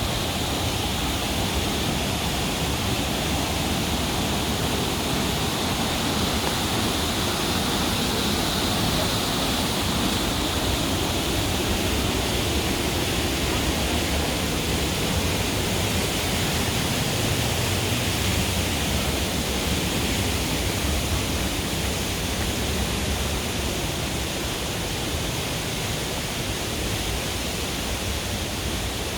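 Waterfall: falling water rushing, a loud, steady, unbroken roar of noise.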